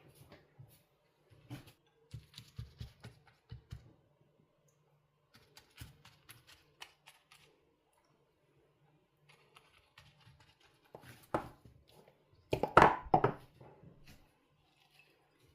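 Scattered light knocks and clicks of objects being handled, with a louder cluster of clattering knocks about twelve to thirteen seconds in.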